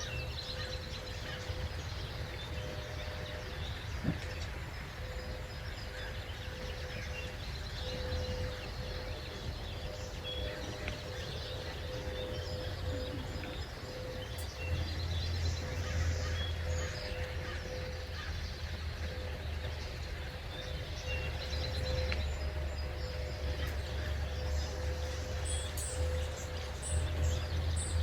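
Several small birds chirping and calling in short, scattered notes over a continuous low rumble of background noise, which grows louder about halfway through. A faint steady hum runs underneath.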